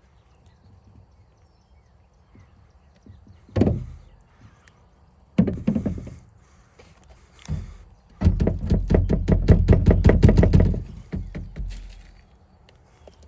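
Graphite powder being shaken from its container over seed corn in a corn planter's seed box: a few knocks and short rattles, then a fast, even rattle of about ten strokes a second lasting a couple of seconds.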